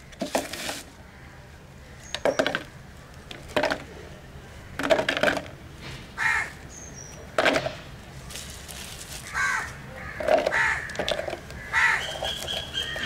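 A bird cawing repeatedly in short, harsh calls, about one every second or so and closer together near the end. Beneath the calls, dry red soil clods are faintly scraped and knocked as hands scoop them into a plastic box.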